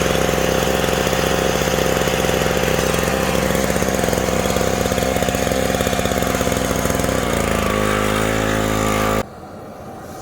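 An engine running steadily at speed, then dropping to a lower, slower speed about seven seconds in, and cutting off abruptly about nine seconds in, leaving only quieter background.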